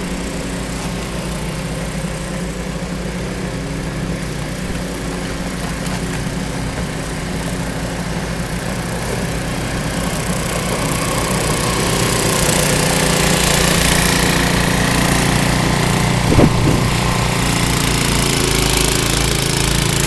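An engine running steadily, getting louder about twelve seconds in, with one brief knock a few seconds later.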